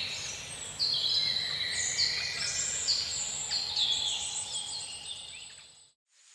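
A chorus of birds singing, with many short high notes repeated over and over. It fades away about five and a half seconds in to a brief silence. A steady insect-like hiss starts at the very end.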